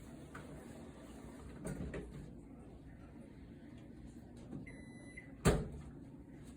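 A short electronic beep, like an appliance's control-panel key tone, about five seconds in, followed half a second later by one sharp knock. A few quieter clicks come earlier, over faint background noise.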